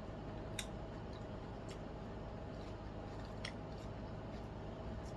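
Close-miked eating: a person chewing a mouthful of salad, with a handful of sharp, irregular mouth clicks over a steady background hum.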